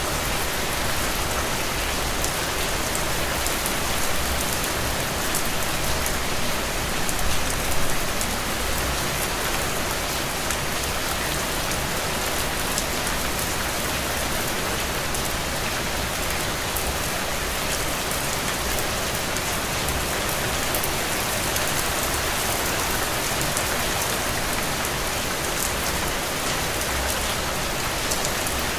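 Heavy, steady rain falling on the ground and soaking into soil and puddles, a dense even hiss with close drop hits throughout. No thunder.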